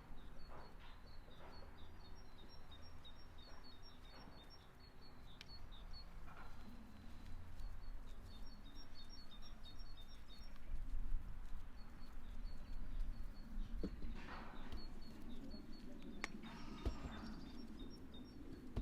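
Small birds chirping outdoors in runs of quick, high, repeated notes. Underneath is a steady low rumble of wind or background noise, with a few scattered knocks.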